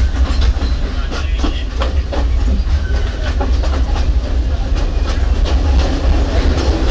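Passenger train running on jointed track, heard on board: a steady low rumble with the wheels clicking over rail joints, the clicks thickest in the first couple of seconds.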